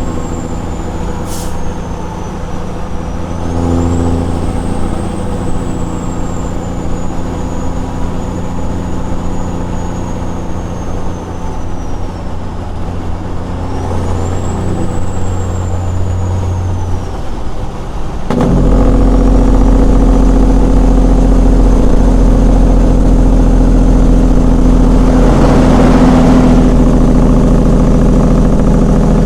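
Straight-piped Caterpillar 6NZ inline-six diesel of a Peterbilt 379 semi running on the road, with a high turbo whistle that rises and falls twice. About 18 seconds in, the exhaust suddenly gets much louder and deeper and stays that way.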